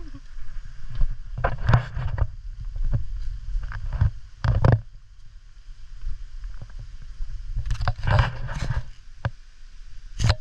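Low rumble of wind and handling on a handheld camera's microphone, broken by several irregular scrapes and rustles: footsteps and movement along a hiking trail.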